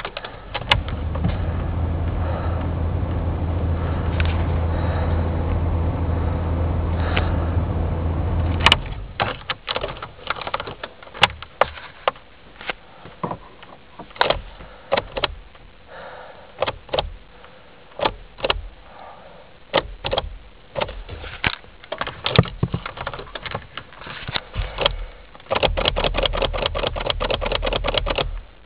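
VW Golf Mk3 1.9 TDI diesel at a cold start in −22 °C. A steady low mechanical drone runs for about eight seconds and ends with a loud knock. Irregular sharp clicks and knocks follow, and a second steady low drone comes near the end.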